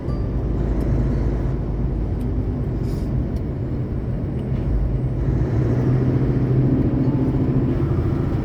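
Semi-truck engine and road noise heard from inside the cab while driving, a steady low hum and rumble.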